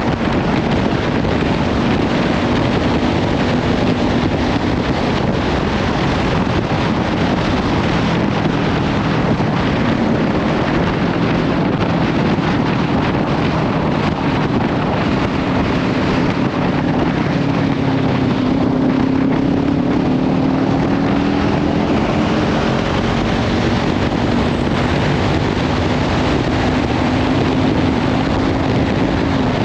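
Heavy wind noise on the microphone at riding speed, mostly covering the Kawasaki Ninja 500's parallel-twin engine with its Leovince slip-on exhaust, which runs steadily with a slight rise and fall in pitch around the middle.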